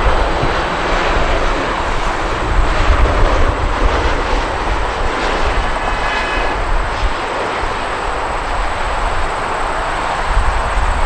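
Jet airliner engines running loud and steady: a wide rushing noise over a deep, uneven rumble, with a faint high whine about six seconds in.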